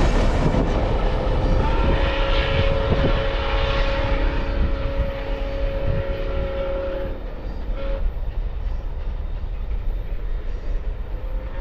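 Steam locomotive No. 148's whistle blowing one long chord-like blast over the rumble of the moving train, cutting off about seven seconds in. A short toot follows a second later, and another blast starts near the end. The train's rumble gradually fades.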